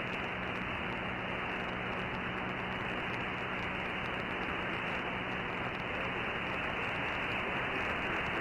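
Steady radio static from a shortwave receiver tuned to an open CB channel with no station transmitting: an even hiss, narrowed by the receiver's voice filter so that nothing sounds above about 3 kHz.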